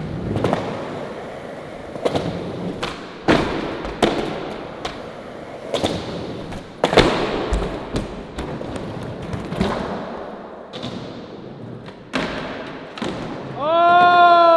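Skateboard being ridden and popped for trick attempts: wheels rolling on pavement, broken by about a dozen sharp knocks and clacks of the tail popping and the board landing. Near the end, a person lets out a long, loud shout that falls in pitch.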